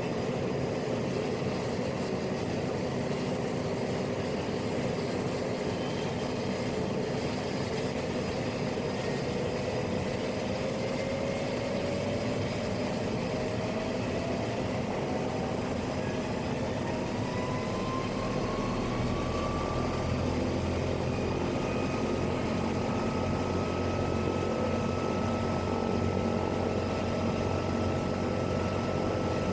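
Turboprop engine of a PAC 750XL starting: a whine rises steadily in pitch for about ten seconds, then levels off about two-thirds of the way in as a low rumble joins it and the engine settles at ground idle.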